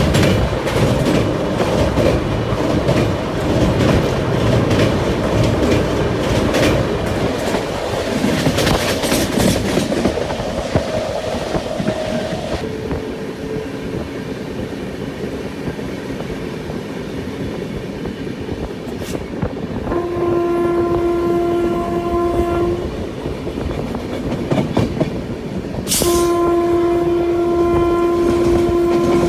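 Passenger train running on the rails, wheels clacking over the joints, the running noise dropping noticeably about twelve seconds in. Then come two long, steady train horn blasts of about three seconds each, the second near the end.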